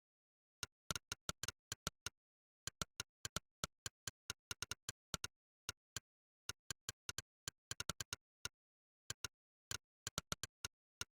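Monkeytype's synthetic 'click' keypress sound, one short, sharp click per keystroke at an uneven typing rhythm of about four to six a second, with brief pauses between bursts and dead silence between clicks.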